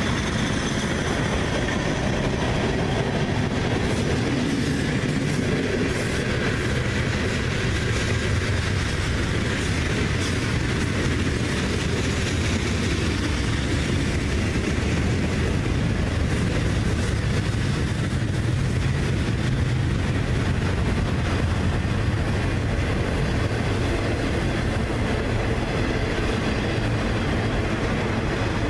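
CSX manifest freight train rolling past, a steady rumble of wheels on the rails with scattered clicks.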